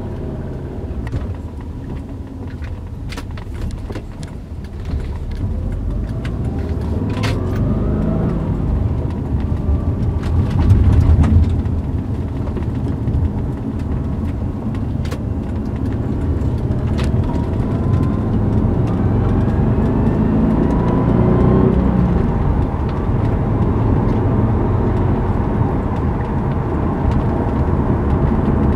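Subaru Liberty B4 (Legacy GT) sequential twin-turbo flat-four engine, heard from inside the cabin as the car drives off and accelerates, with steady low road and engine rumble. The engine note climbs in pitch in a couple of pulls, loudest about eleven seconds in. A few sharp clicks come through over the top.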